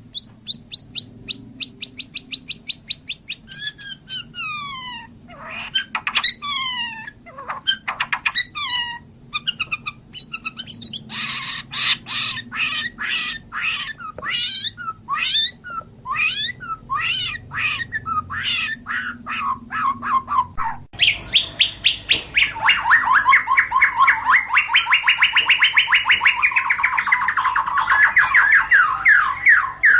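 White-rumped shama (murai batu) singing a varied song: quick runs of short repeated notes and downward-slurred whistles. About two-thirds of the way through it switches abruptly to a fast, unbroken rattling trill.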